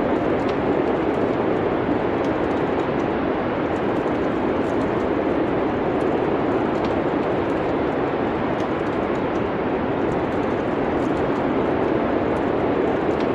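Steady, even wind noise of a snowstorm, with faint, sparse crackles of a wood fire scattered through it.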